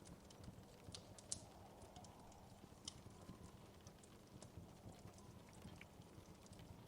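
Faint crackling of a wood fire in a fireplace: irregular small pops and snaps, a sharper one about a second in and another near three seconds, over a low steady rumble of the flames.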